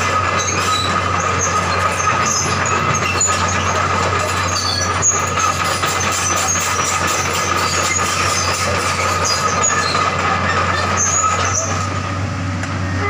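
Hydraulic excavator running and travelling on its steel tracks: a steady engine hum with a constant whine, and many short metallic squeaks from the tracks.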